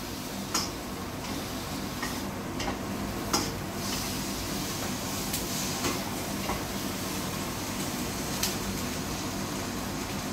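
Chicken fajita filling sizzling and hissing in a frying pan, with a few sharp knocks of a utensil against the pan, over a steady low hum.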